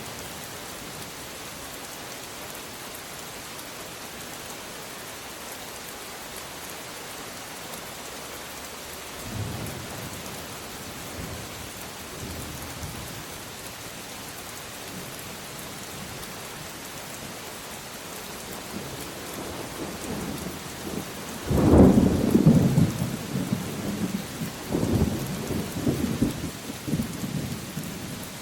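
Steady rain with a roll of thunder: a faint low rumble about nine seconds in, then a sharp, loud clap about two thirds of the way through that rolls on in waves until near the end.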